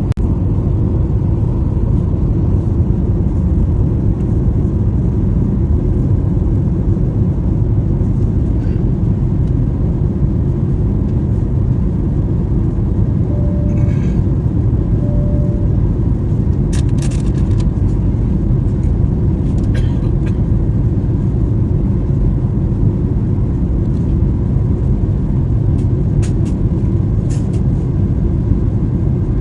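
Steady, loud cabin rumble of an airliner in flight. About halfway through come two short tones of the same pitch, a couple of seconds apart.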